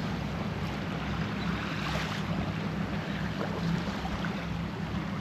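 Wind buffeting the microphone and water rushing along the hull of a sailboat under headsail alone, with the engine off. It is a steady, even noise with a low steady hum underneath.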